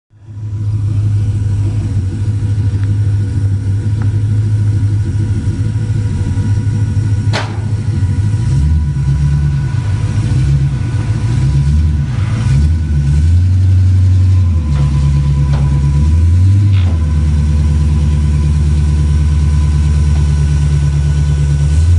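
Pontiac Trans Am V8 running, its engine speed shifting up and down several times between about 8 and 17 seconds in, then holding steady. A single sharp click about 7 seconds in.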